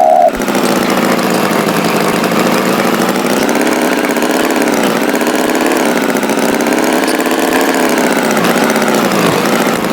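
Tractor engine running steadily, its pitch wavering gently up and down.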